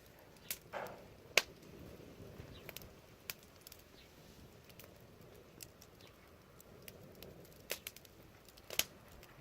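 Wood fire crackling: irregular sharp pops and snaps over the low, steady rush of the flames, the loudest pop about a second and a half in and another strong one near the end.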